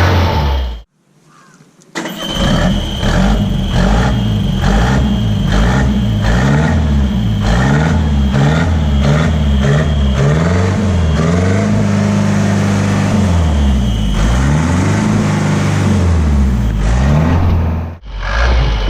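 Tata 407 diesel engine running just after a cold start from long storage, revved up and down over and over so that its pitch repeatedly rises and falls. The sound cuts out briefly about a second in and again near the end.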